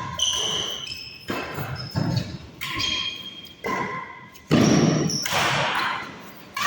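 Badminton rally: rackets striking the shuttlecock about once a second, each hit ringing on in the hall, with short squeaks from shoes on the court floor between shots.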